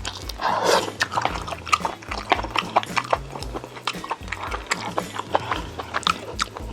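Close-miked chewing and lip-smacking while eating Korean braised chicken: a quick, irregular run of wet mouth clicks and smacks, with a short slurp or sucking sound about half a second in.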